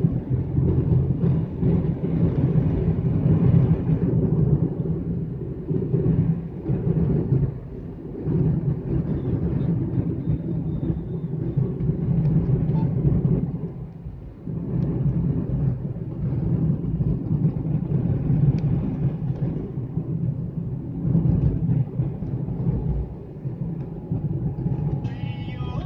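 Hyundai Xcent on the move in traffic: a steady low rumble of engine and road noise, dipping briefly a little past halfway.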